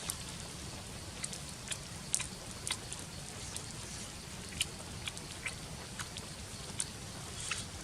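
Irregular sharp clicks and crackles, one or two a second, over a steady low rumble.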